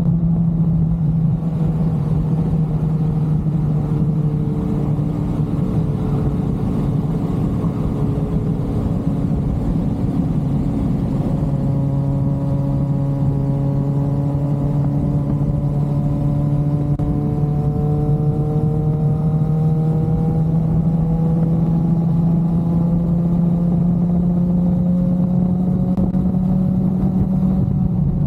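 Motorcycle engine running at a steady cruise, its note easing down slightly and then climbing slowly through the second half, over a steady low rumble.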